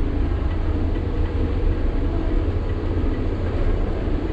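Sany 6x4 dump truck's diesel engine running steadily under way, a deep constant rumble mixed with road and rolling noise.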